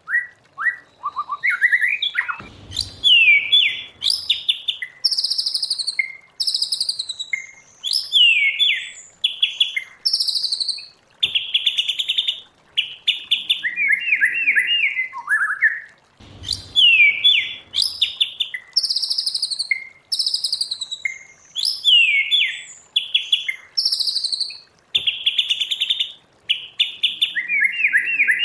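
White-rumped shama singing a long, varied song of clear whistles, slurred notes and fast rattling trills, with the same run of phrases coming round again about every 14 seconds.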